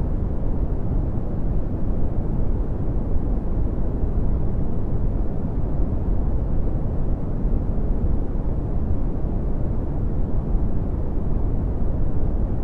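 Red (Brownian) noise: a steady, even rumbling hiss, strongest in the bass and falling off toward the treble, with no rhythm or change.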